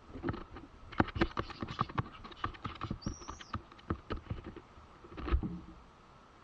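Birds at a wooden birdhouse: a run of irregular tapping and scratching. A short, high whistled call that bends downward comes about three seconds in, and a heavier thump follows a little after five seconds.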